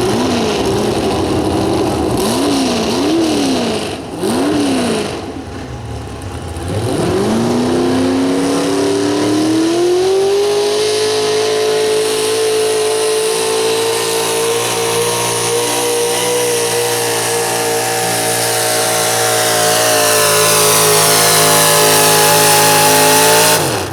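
Super stock 4x4 pulling truck's engine revved in a few quick blips, then brought up to full throttle about seven seconds in and held high and steady through the pull, with a faint high whine climbing near the end. The engine cuts off suddenly just before the end.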